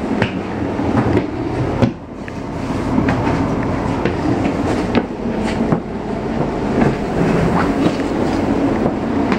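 Steady running noise of a stationary ICMm (Koploper) electric multiple unit, heard from its door vestibule, with scattered knocks and clicks.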